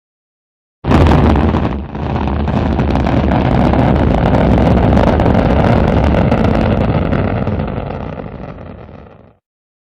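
Rocket engine exhaust rumble during a launch: a dense, loud rumble that starts abruptly about a second in, holds steady, then fades and cuts off near the end.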